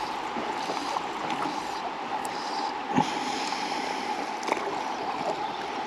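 Steady rush of river water, with a short sharp knock about three seconds in.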